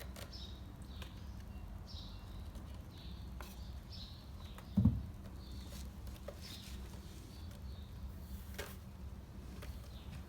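Short, high chirps repeating about once a second, with a single dull thump just under five seconds in and a few light clicks.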